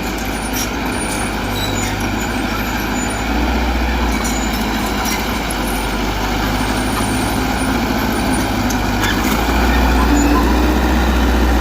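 Heavy earthmoving machine's engine running steadily under work, growing louder about three seconds in and again near the end.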